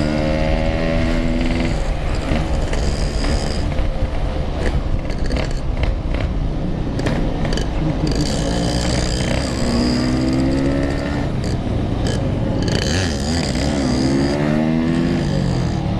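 Yamaha RX-King two-stroke motorcycle engines revving up and down while riding, the pitch climbing and dropping several times, over a steady rush of wind and road noise.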